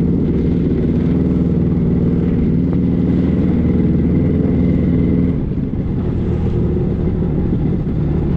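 Motorboat engine running steadily, easing off about five seconds in as its pitch and level drop slightly.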